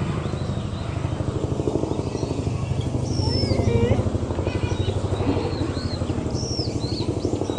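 A steady, fast low throbbing, with small birds chirping and whistling over it.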